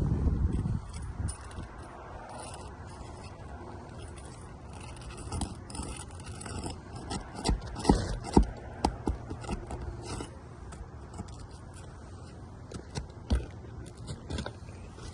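Scattered sharp clicks and short scrapes, most of them bunched together around the middle, with a few more near the end.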